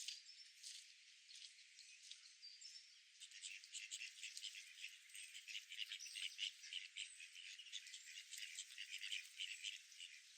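Small birds chirping and twittering in a faint, dense chatter of short high calls, growing busier about three seconds in. The sound is thin, with all the low end cut away.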